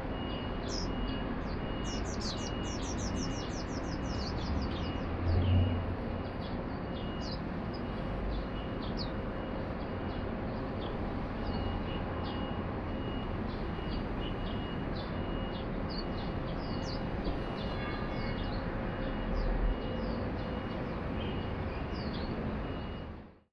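Swinhoe's white-eyes giving thin, high chirps, with a quick run of descending notes a couple of seconds in, over a steady background hum of city traffic. Two dull low thumps stand out, about five and twenty seconds in.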